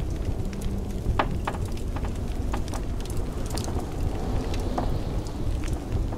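Wood fire crackling in a fireplace, with scattered sharp pops over a steady low rumble of blizzard wind.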